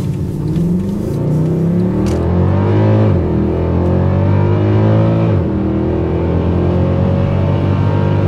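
The 6.2-litre naturally aspirated M156 V8 of a Mercedes-Benz E63 AMG (W212), with its stock exhaust, heard from inside the cabin under hard acceleration with the gearbox in Sport mode. The revs climb, drop sharply with an upshift about three seconds in, and climb again. They drop with a second upshift a couple of seconds later, then the engine pulls on steadily.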